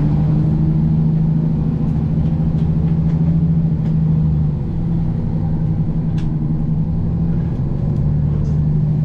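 Vehicle engine running at a steady speed: a loud, continuous low drone with a strong hum, easing off slightly a little under halfway through and then steadying again.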